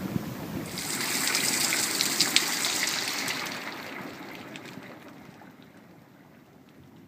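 Heavy rain falling and splashing, with drips and trickling water. The hiss swells sharply about a second in, then fades away over the last few seconds.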